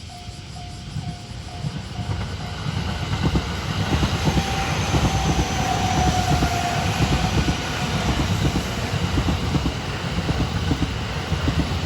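Sunrise Express sleeper train passing close by, its rumble building and its wheels clattering over the rail joints. A repeating level-crossing bell sounds at first and is lost under the train about two and a half seconds in.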